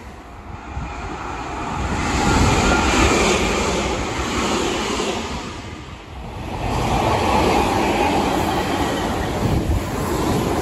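Meitetsu electric trains running on the line: a rushing sound of wheels and running gear swells and fades, drops off suddenly about six seconds in, then builds again as another train approaches.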